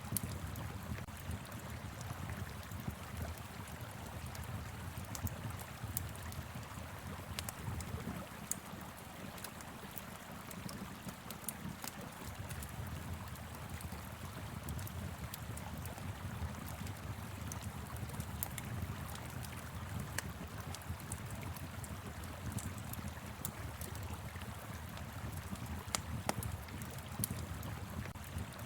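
Wood fire in a fire pit crackling, with scattered sharp pops, over the steady rush of a flowing river.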